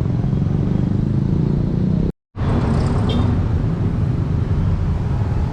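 Steady low rumble of wind and road traffic noise on the microphone while riding a bicycle along a road. The sound cuts out completely for a fraction of a second about two seconds in.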